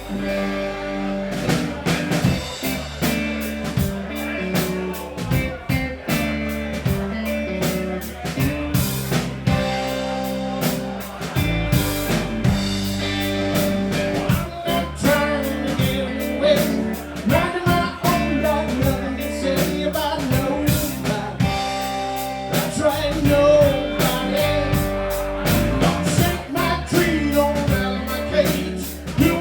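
Live blues band playing, with a drum kit keeping a steady beat under guitar.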